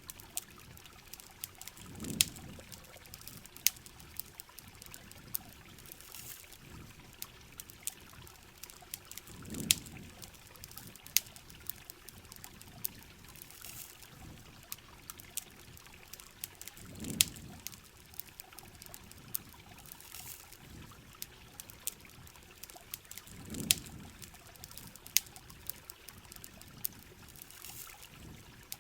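Heavy rain hissing steadily, with a campfire crackling in many sharp pops. A pouring, trickling water sound swells briefly four times, about every seven seconds.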